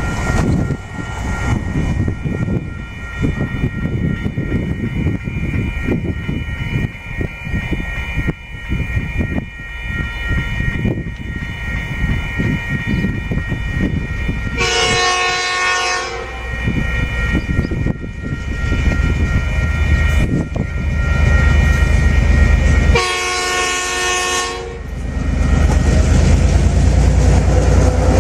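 TasRail DQ class diesel locomotive sounding its horn in two blasts of about a second and a half each, a few seconds into the second half, while the low rumble of the approaching train builds and becomes loud near the end.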